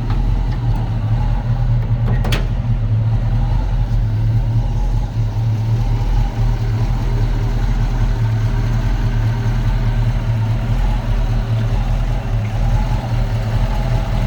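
1964½ Ford Mustang engine idling steadily, its idle speed a hair low in the owner's judgement. A sharp click sounds about two seconds in.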